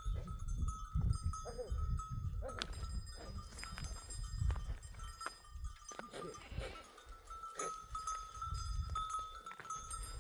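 A flock of goats and sheep bleating here and there, with livestock bells ringing and clinking, over a low uneven rumble.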